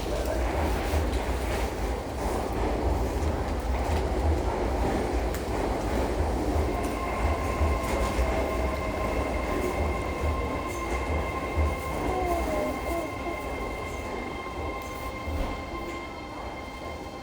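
Fukuoka City Subway 2000-series train with Hitachi GTO-VVVF inverter slowing into a station, heard from inside the car. The low running rumble fades gradually, and from about halfway through a steady high inverter whine comes in.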